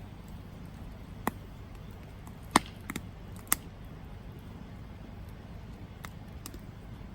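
Wood campfire crackling, with several sharp pops in the first few seconds, the loudest about two and a half seconds in, and a couple of fainter snaps later, over a steady low rumble.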